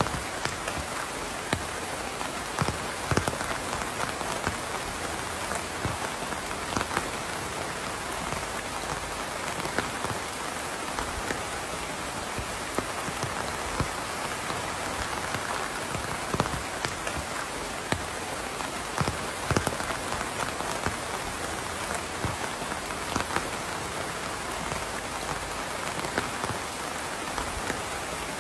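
Steady rain falling on a surface, a constant hiss with many sharp individual drop impacts scattered through it.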